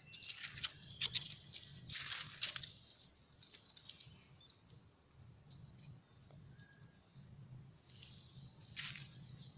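Steady high-pitched insect chirring, with brief rustling and scuffing noises during the first three seconds and again near the end.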